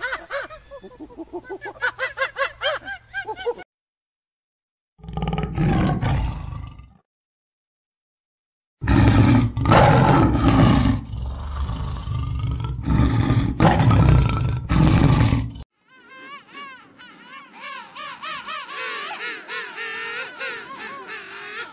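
A run of animal sounds with hard cuts between them. Rapid wavering calls stop suddenly, followed by a short loud burst. Then comes the loudest part: a spotted big cat roaring in several heavy bursts for about seven seconds. At the end, a king penguin colony calls with many overlapping wavering notes.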